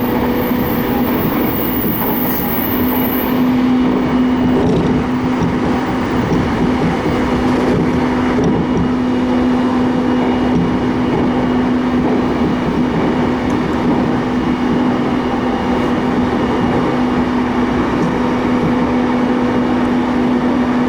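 Commuter train running at speed, heard from inside the passenger car: a steady rumble with a constant low hum. A faint high whine stops a few seconds in.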